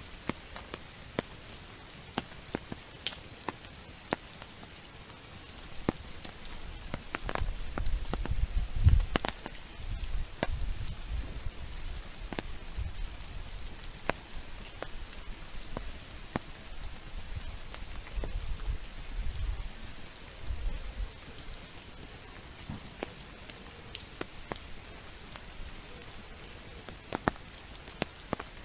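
Steady spring rain falling, with sharp drips ticking close by every so often. From about six seconds in until about twenty, a low rumble comes and goes over the rain.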